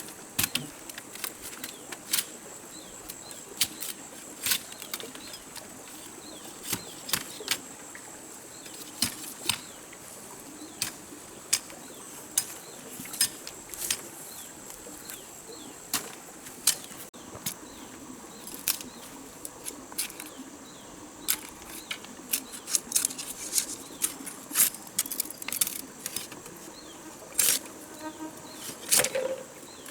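Irregular sharp clicks and knocks of hands at work, coming more closely together in the second half, over a steady high-pitched insect drone.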